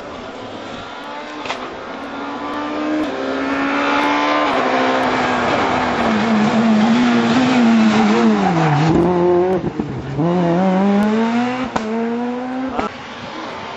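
Rally car engine rising in pitch through upshifts as the car gets louder, then dropping in revs to a low point about nine seconds in as it takes a hairpin, with a rushing tyre noise over the loudest part. It then accelerates hard out of the bend, with another gear change near the end.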